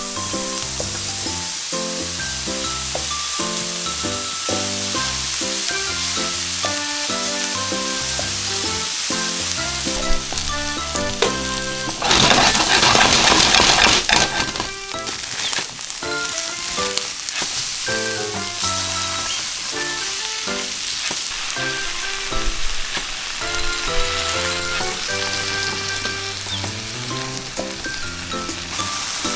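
Meat, cabbage and noodles sizzling as they are stir-fried in a nonstick frying pan, a steady hiss that swells to a loud burst of sizzling about twelve seconds in for two seconds. Light background music plays throughout.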